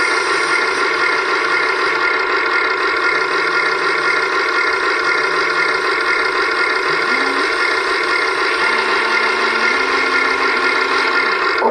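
Huina 1580 RC excavator running: a steady mechanical hum with several whining tones, and a lower note that shifts in steps and slides up about seven seconds in.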